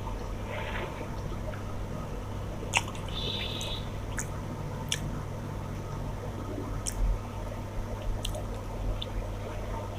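Wet squishing and chewing as rice and fish curry are mixed and eaten by hand, with a few sharp clicks scattered through it. A steady low hum runs underneath.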